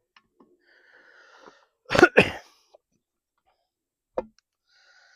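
A man coughs twice in quick succession about two seconds in. A single short knock follows near the end.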